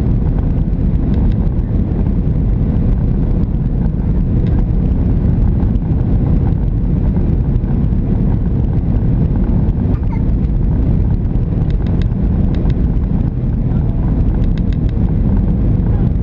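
Steady low rumble of a Boeing 737-700's CFM56 jet engines and airflow heard inside the passenger cabin in flight, with a few faint clicks about three-quarters of the way through.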